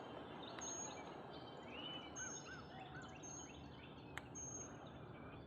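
Several wild birds singing faintly: a thin, high note repeated about every second, with scattered lower chirps and a few short rising-and-falling whistles in the middle.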